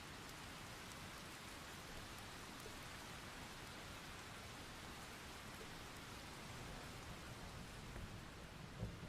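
Steady, even rain falling, with a low rumble of distant thunder starting to build in the last moment.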